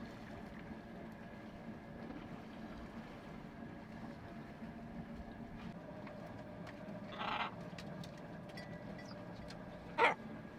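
Faint steady hum of the sailboat's electric drive motor running under way. Two short calls cut through it, one about seven seconds in and a sharper one about ten seconds in.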